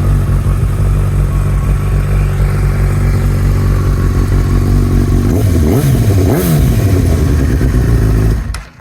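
2012 Honda CB1000R inline-four engine idling through a full Remus aftermarket exhaust, blipped twice in quick succession around the middle, then switched off near the end.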